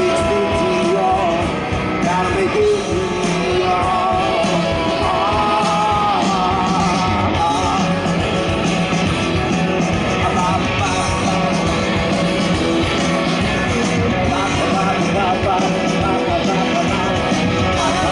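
Live rock band playing at full volume: electric guitars, bass and drums in a steady wash, with a wavering melodic line over the top.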